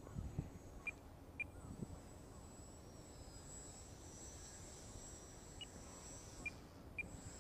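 Faint high whine of a micro RC plane's small electric motor and propeller, wavering up and down in pitch as the throttle changes, over low wind rumble on the microphone.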